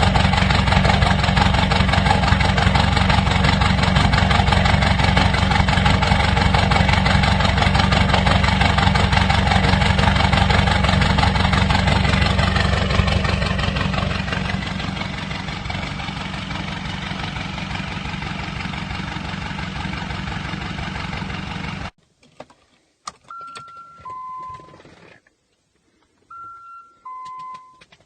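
Diesel car engine running after a cold start in deep frost. It gets quieter about 13 to 16 seconds in and cuts off abruptly about 22 seconds in. A car's electronic two-note chime, falling in pitch, then sounds twice, a few seconds apart.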